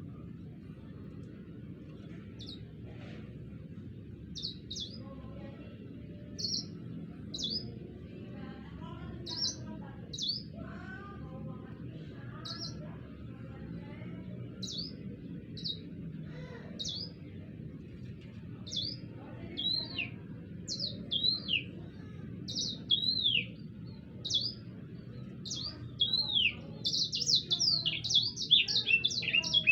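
A sanger songbird chirping: short high notes about once a second, coming faster and building into a quick rolling run of notes near the end.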